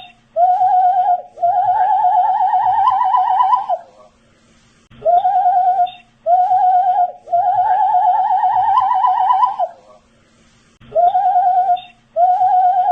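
A man whistling a short three-note phrase over and over, about every six seconds: two short notes, then a longer wavering note that slowly rises in pitch, with short pauses between phrases.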